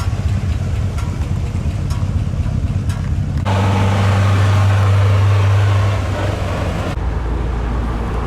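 Engines of arriving classic and muscle cars running at low speed. The sound changes abruptly about a third of the way in and again near the end, from one car's engine to another, and is loudest in the middle stretch.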